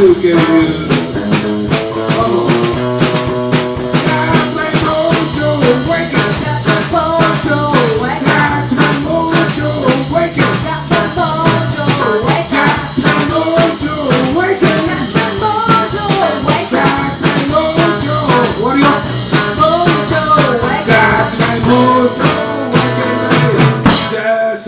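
Live blues band playing an instrumental passage with a steady drum beat under a lead instrument bending notes, the song stopping abruptly near the end.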